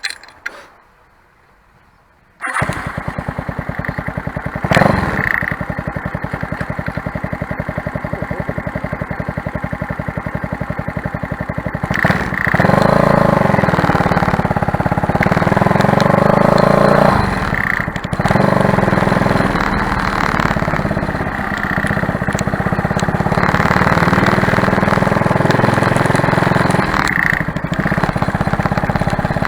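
Motorcycle engine breathing through a cheap aftermarket silencer, starting up about two and a half seconds in and then idling with an even pulse. Its speed rises and falls several times in the second half as the throttle is opened, the silencer keeping the exhaust quiet.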